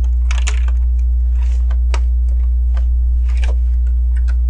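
Plastic LEGO bricks clicking and rattling as pieces are handled and pressed onto a build, a few irregular clicks over a steady low hum.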